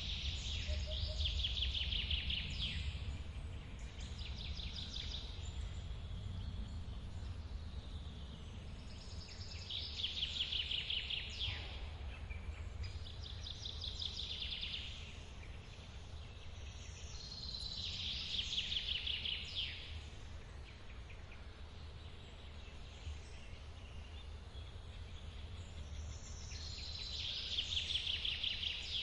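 A songbird repeating a short song, a brief note running into a fast trill, about every eight or nine seconds, over the steady low rumble of a forest waterfall.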